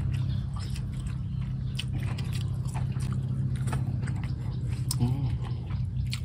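Close mouth sounds of people chewing and biting a meal of small field frogs and rice-field crabs with sticky rice, with many short clicks throughout. A steady low hum runs underneath.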